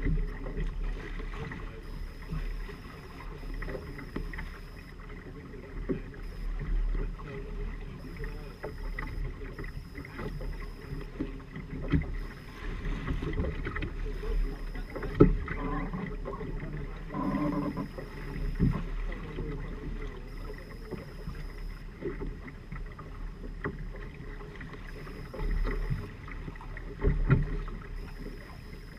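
Firefly 26 trimaran under sail: water rushing along the hulls, wind buffeting the microphone with a low rumble, and now and then a sharp knock.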